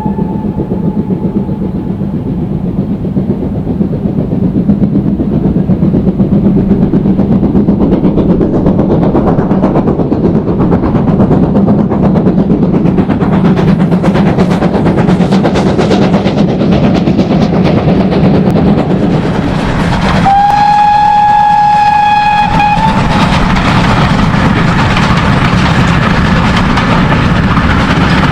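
Steam train running along the line, its sound building over the first few seconds. The tail of a steam whistle fades at the very start, and a second whistle blast sounds for about two and a half seconds near the end.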